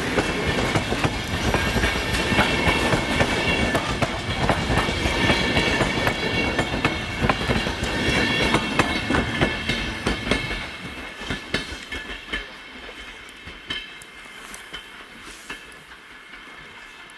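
Passenger train coaches rolling past close by, their wheels clicking rapidly over rail joints. About two-thirds of the way through the sound fades as the last coach goes by and the train moves off, leaving only scattered clicks.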